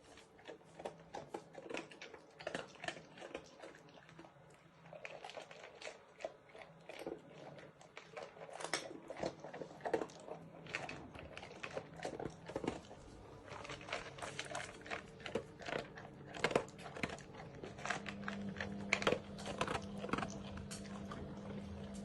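Irregular crunching clicks, like chewing, with a steady low hum coming in near the end.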